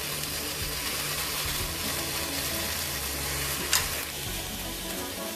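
Onion paste sizzling as it fries in a nonstick pan, stirred with a wooden spoon, with one sharp knock a little past halfway through.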